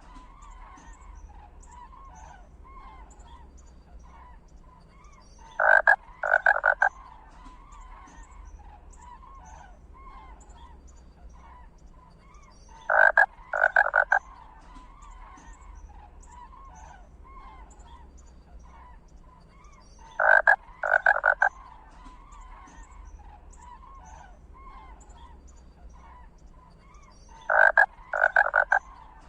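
Animal calls: a loud group of two or three short, harsh calls comes back about every seven seconds, four times, over a steady chorus of many small chirping calls.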